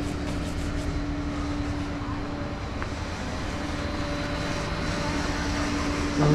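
Engine running steadily, a constant hum with a low rumble underneath, typical of a tow truck idling while the car is loaded.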